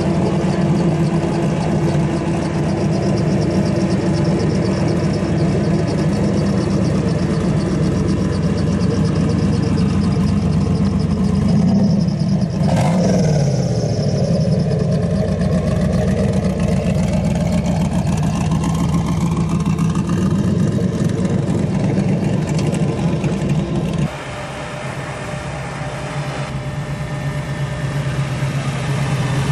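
Car engines running at idle, with one engine note briefly falling in pitch about halfway through. Near the end the sound changes abruptly to a quieter, lower engine idle.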